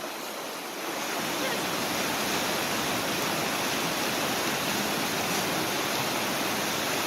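Fast-flowing, flood-swollen stream rushing in a steady, even wash of water noise, which grows slightly louder about a second in.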